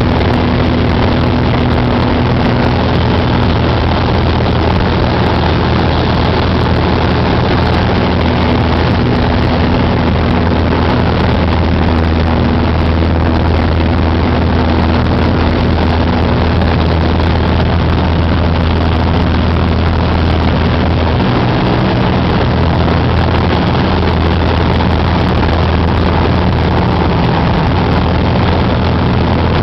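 Cessna 188 AgTruck's piston engine and propeller running in flight, a loud, steady drone with a rushing noise over it; the engine note shifts slightly about two-thirds of the way through.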